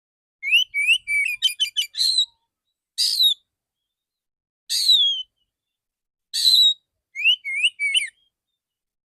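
Male oriental magpie-robin singing in loud, separate phrases. Short rising whistles and a quick run of notes open the song. Harsh, rasping bursts with a falling whistle follow, each about a second and a half apart, and more rising whistles come near the end.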